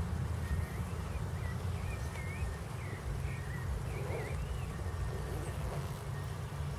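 Outdoor ambience of a steady low rumble, with a small bird singing short warbled chirps over the first four seconds or so.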